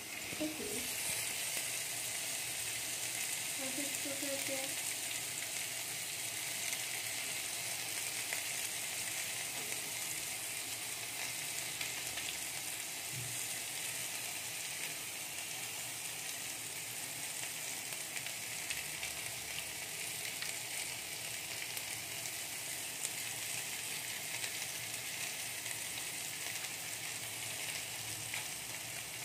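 Chopped onion, tomato and green chilli frying in oil in a steel kadai: a steady sizzle, stirred now and then with a metal spoon.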